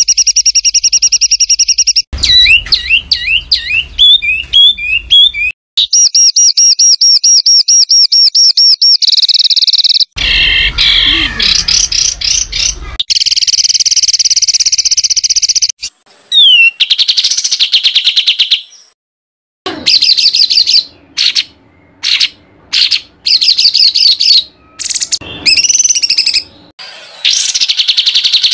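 Songbird song spliced into a masteran tutor track: fast, harsh, rapid-fire repeated notes, trills and sliding whistles. The track switches abruptly from one recording to the next every few seconds, with a brief silent gap about two-thirds of the way through.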